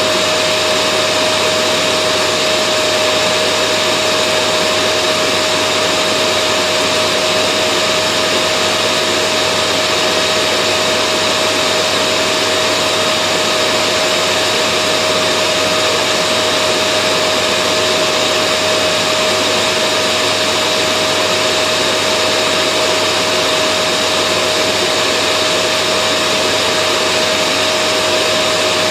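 Vacuum cleaner running steadily: an even rush of air with a constant mid-pitched motor whine, with no change in speed or level.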